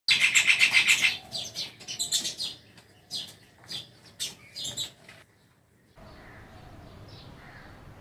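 Bird chirping and tweeting: a loud, rapid high trill for about the first second, then a string of separate short chirps that stop about five seconds in. From about six seconds there is only a faint, steady outdoor background hiss.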